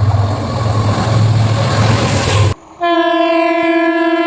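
A passing train rumbles and rushes for about two and a half seconds, then cuts off abruptly. Just under three seconds in, a train horn starts: one loud, steady, held note.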